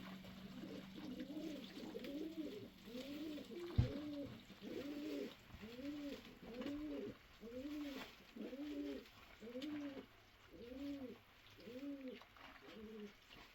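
A bird giving a low call over and over, about a dozen rising-and-falling notes roughly one a second. A single thump sounds about four seconds in, and a low steady hum heard at the start stops at about the same moment.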